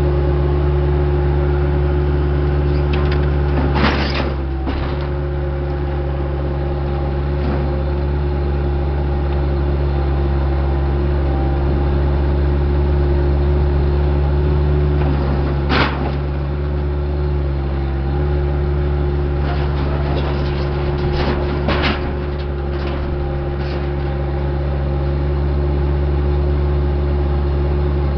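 Diesel engine of heavy earthmoving equipment running steadily at a constant high speed, with a few sharp knocks and clunks from the work now and then.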